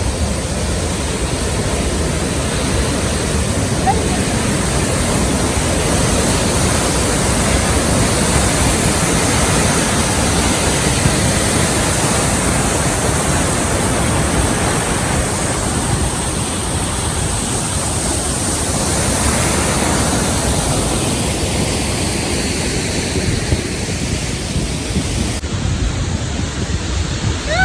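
Steady, loud rush of a waterfall, easing off slightly for a few seconds near the end.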